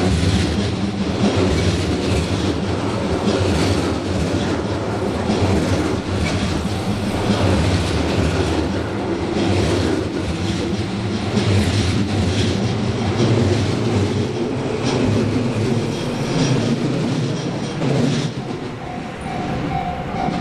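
Tobu Tojo Line electric commuter train running, its wheels clacking over rail joints with a steady rumble.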